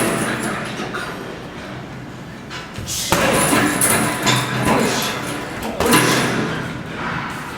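Heavy thuds of Kun Khmer training strikes landing, with two loud blows about three and six seconds in, each trailing off.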